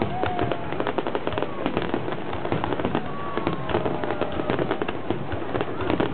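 Fireworks display crackling: a dense, continuous run of small rapid pops, with a few short pitched tones sliding over it.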